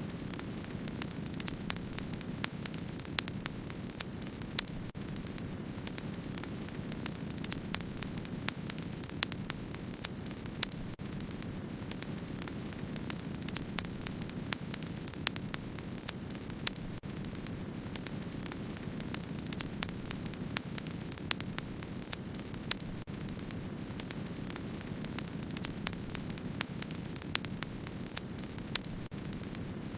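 Wood fire burning: a steady low rush of flame with frequent sharp crackles and pops from the burning wood, scattered irregularly several times a second.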